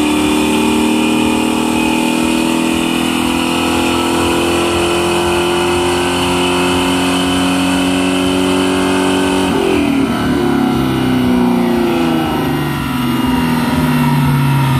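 2002 Ford Mustang GT's naturally aspirated 4.6-litre two-valve V8 at full throttle on a chassis dynamometer, its revs climbing steadily through a dyno pull. About two-thirds through, the pull ends and the revs fall away as the car coasts down on the rollers.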